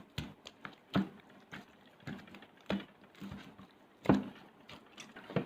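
Hands kneading flour-and-ghee dough in a bowl, with irregular soft slaps and knocks, the loudest about a second in and about four seconds in.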